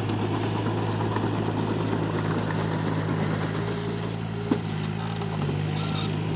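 Komatsu D31P bulldozer's diesel engine running steadily, with one short sharp click about four and a half seconds in.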